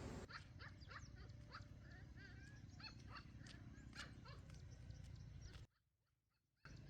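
Faint, repeated high whimpers and squeaks of dogs, most likely puppies, broken by a brief silence near the end.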